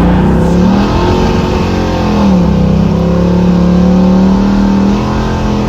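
Stage-2-cammed 5.3 LS V8 in a car being driven under way, pulling steadily; its note rises, dips about two seconds in, then climbs steadily again.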